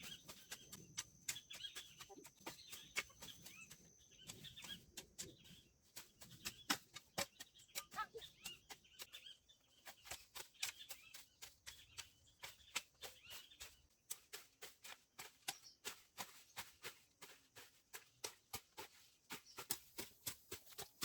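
Irregular sharp clicks and snaps, several a second, with birds chirping faintly behind them and a thin high steady whine for the first few seconds.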